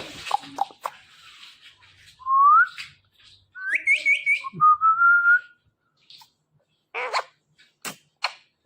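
Indian ringneck parrot whistling: a single rising whistle, then a quick run of short rising chirps, then one long, slowly rising whistle, with a few short sharp calls near the end.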